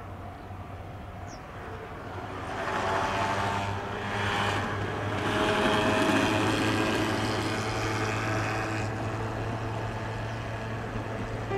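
Kintetsu electric commuter train running through the junction tracks. Its wheel-and-rail noise builds about two seconds in, is loudest around the middle and eases near the end, with several steady whining tones over it.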